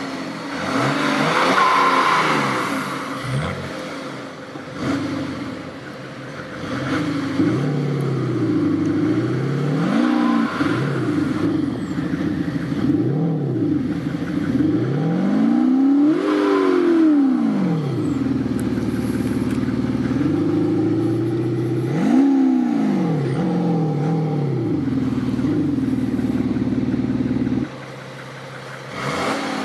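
BMW 530d (F10/F11) straight-six diesel fitted with an aftermarket exhaust sound generator, revved repeatedly so the sporty engine note rises and falls with each blip. Near the end it is held at a steady raised pitch for several seconds, then drops suddenly, with one short blip after.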